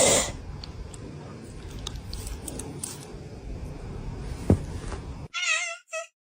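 A domestic cat meowing near the end: one bending call, then a short second one. Before that there is background noise with a brief noisy burst at the start and a sharp knock about four and a half seconds in.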